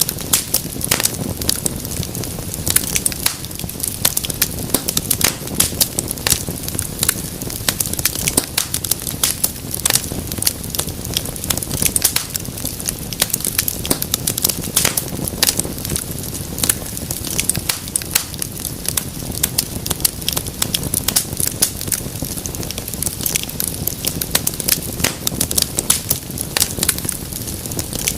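Wood fire burning in a fireplace: many sharp pops and crackles over a steady low rumble of flame.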